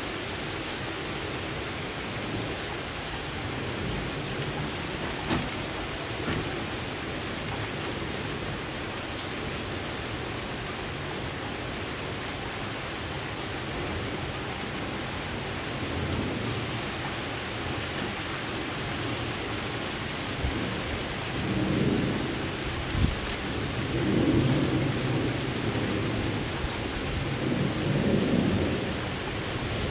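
Steady rain falling, with low rumbles swelling and fading in the second half and a few sharp taps.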